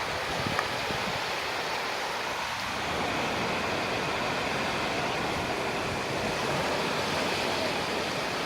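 Sea waves washing up on a beach: a steady rushing hiss of surf that swells slightly about three seconds in.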